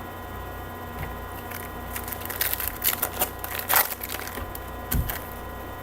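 Trading-card pack wrapper crinkling and tearing open, with irregular crackles and clicks of cards being handled, over a steady electrical hum. A single soft thump comes about five seconds in.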